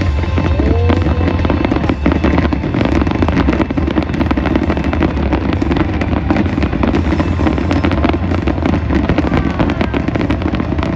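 Fireworks show: dense crackling and popping from bursting shells over a deep, continuous rumble, with a brief whistling glide about half a second in.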